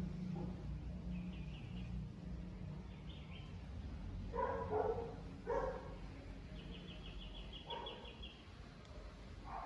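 Birds chirping, with a fast trill of repeated high notes just after the middle, while a dog gives a few short barks in the middle.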